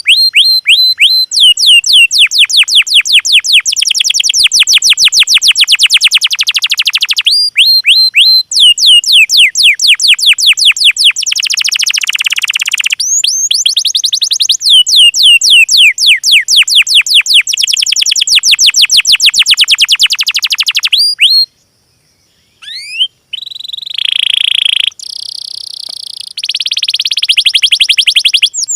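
Recorded songbird song for training cage birds: long runs of loud, high, sharply falling chirps, about six a second. The song breaks off briefly about three quarters of the way through, then resumes with different, shorter phrases.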